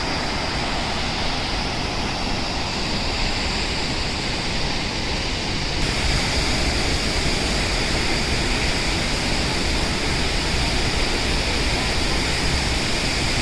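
Athirappilly Falls: a large waterfall's steady rush of falling water, a dense hiss with no break, growing a little brighter and louder about six seconds in.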